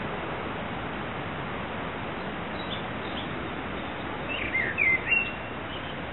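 Steady outdoor background noise with a few faint bird chirps, then a short burst of quick, louder chirps about four and a half seconds in.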